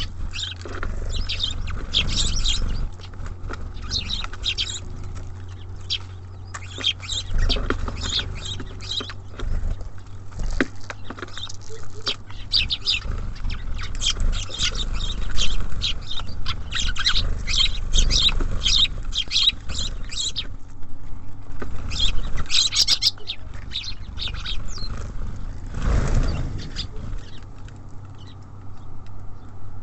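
Small songbirds at a feeder chirping in dense runs of short, high calls, with a few brief lulls and fewer calls near the end. A steady low hum runs beneath.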